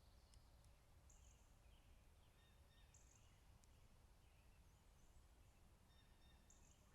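Near silence: the faint hiss and low rumble of an outdoor trail-camera microphone, with faint distant bird calls, a short high-pitched call repeating about every two seconds among softer chirps.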